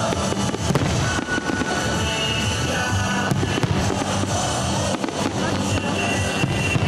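Fireworks bursting and crackling in a dense, unbroken stream, with music playing under them.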